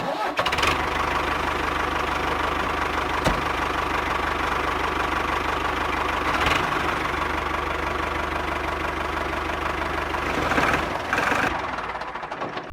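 Small motor of a homemade model tractor running steadily with a fast, even rattle, with a couple of brief clicks along the way. It fades near the end.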